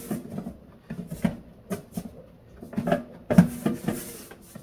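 Hands kneading flour dough for dumplings in a bowl: irregular soft pats and slaps, with the firmest one a little over three seconds in.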